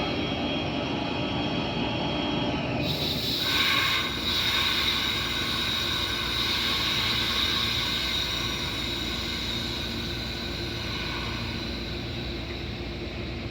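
A train rolling past on the rails, with a steady high-pitched whine from the wheels and rails that starts about three seconds in, then slowly eases off.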